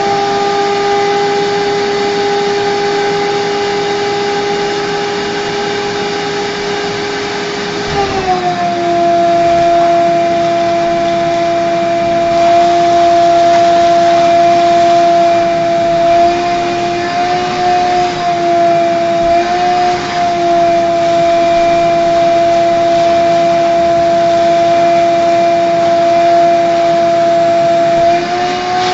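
Vacuum cleaner running with a steady, loud whine. The whine drops slightly in pitch about eight seconds in and wavers briefly a few times after that.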